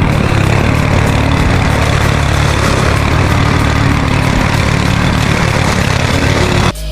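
Small petrol lawnmower engine running steadily with a fast low pulse, cut off abruptly near the end.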